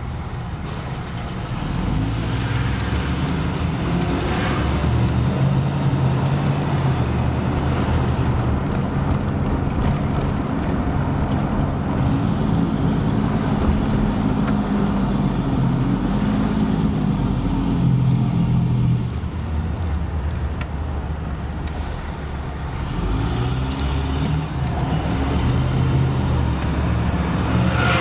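Road vehicle engine running under load, its pitch rising and falling as it pulls and shifts, with road noise. It eases off about two-thirds of the way through, then pulls again.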